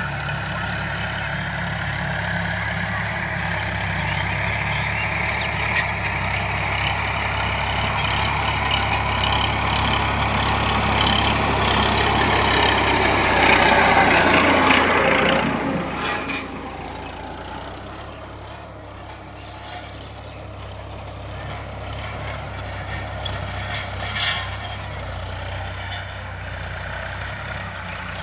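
Sonalika DI 745 tractor's diesel engine running, growing louder over about fourteen seconds, then easing off suddenly a little past the middle and running more quietly.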